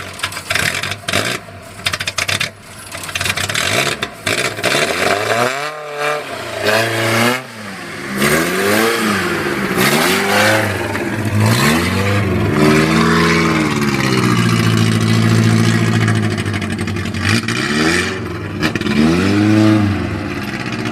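Old Showa-era vehicle engine running unevenly at first, then blipped up and down about seven times in short revs between stretches of steady idle.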